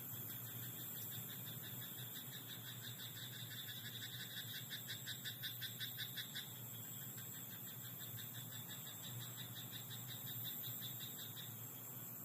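Frogs calling in a rice paddy: a rapid pulsed croaking, about four to five pulses a second, loudest from about the third to the sixth second, over a steady high-pitched chorus and hiss.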